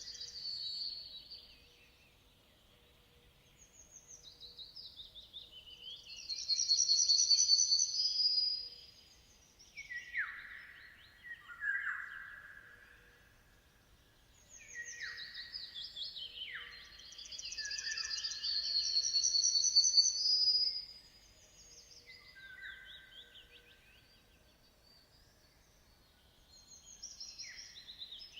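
Songbirds singing in phrases of a few seconds with short pauses between, high rapid trills over lower, falling whistled notes.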